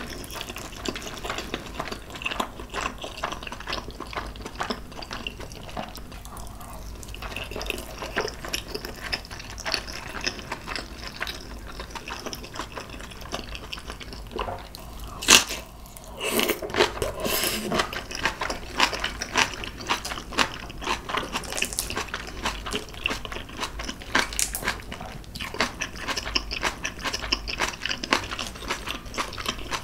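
Close-miked eating sounds: chewing and small wet mouth smacks as steamed dumplings and fresh napa cabbage kimchi are eaten, with a sharp crunch about fifteen seconds in as a bite of the crisp cabbage kimchi is taken.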